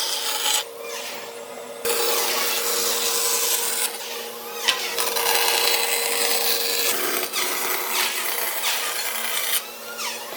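A power tool abrading wood: a steady motor hum under a rough rasping noise. It drops out briefly near the start and again near the end.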